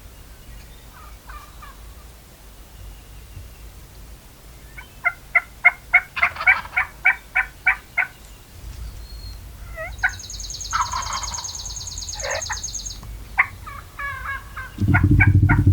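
Wild turkey calling: runs of sharp, rapid notes, about four a second, come twice, once about a third of the way in and again near the end. A buzzy high sound lies between them, and a loud low thump or rumble comes just before the end.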